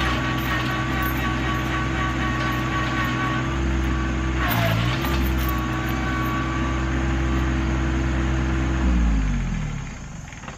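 Rural King RK25 subcompact tractor's engine running steadily at high throttle, straining on a pull against a stump that will not budge. It dips briefly in pitch about four and a half seconds in, then winds down in pitch and dies away near the end.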